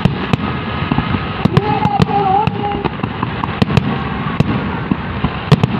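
Aerial fireworks shells bursting in a dense, irregular run of sharp bangs and crackling.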